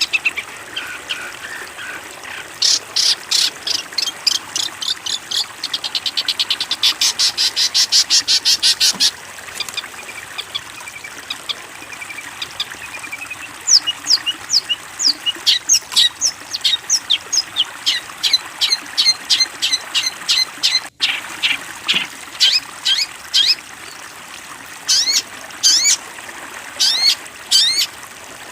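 Songbird singing in quick series of high, sharp notes. A fast rattling trill runs for several seconds, then gives way to runs of separate down-slurred chips, several a second.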